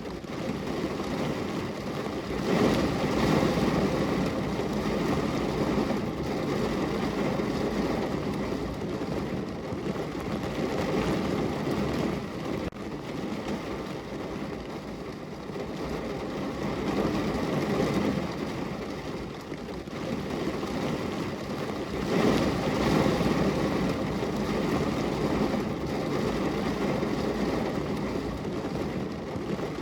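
Heavy rain falling on a car's roof and windows, heard from inside the car: a dense, steady patter that swells louder twice, a few seconds in and again about three-quarters of the way through.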